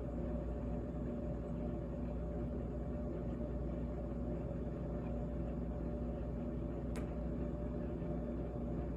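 GE GTH18XCTZRBB refrigerator running: a steady hum made of several layered low tones, with a single faint click about seven seconds in.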